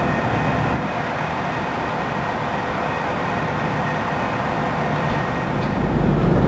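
Fire truck engine running steadily, a constant mechanical rumble with faint steady tones over it.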